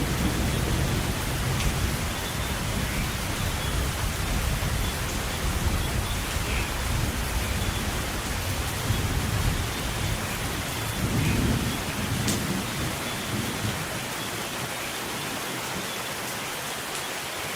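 Steady heavy rain with rolling thunder rumbling low underneath; the rumble swells again about two-thirds of the way through, then dies away, leaving the rain alone near the end.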